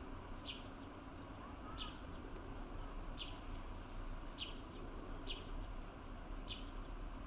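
A small wild bird calling: a short, high note that falls in pitch, repeated about six times at a steady pace of roughly one call a second, over a steady low background rumble.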